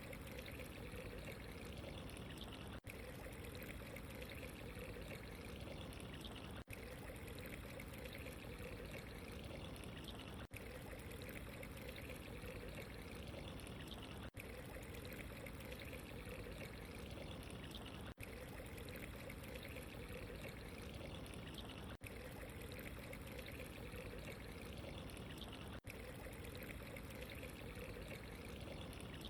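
Steady trickling water, an even wash of running-water noise, with a very brief dip in level about every four seconds.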